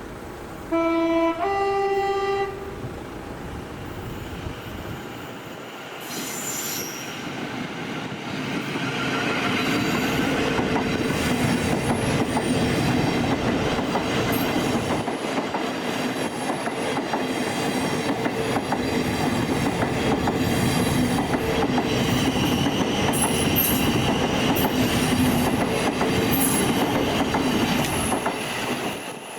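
A train sounds a two-tone horn, a low note then a higher one, for about two seconds. Then it passes over the level crossing, the rumble of wheels on rail building up and running steadily for about twenty seconds before dropping away near the end.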